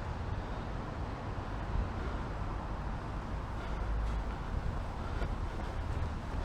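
Steady outdoor city-street noise dominated by a low rumble, with no clear single event.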